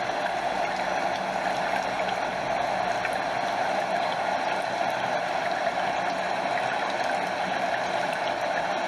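A stream running steadily with water cascading over a small waterfall: an even, unbroken wash of flowing water.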